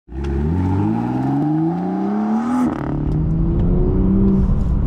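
BMW turbocharged straight-six with a modified exhaust accelerating hard. The engine note climbs for a couple of seconds, breaks off at a gear change a little before the midpoint, then pulls again from a lower pitch.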